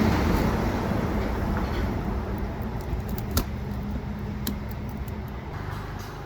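A low, noisy rumble that slowly fades, with a couple of sharp clicks about halfway through.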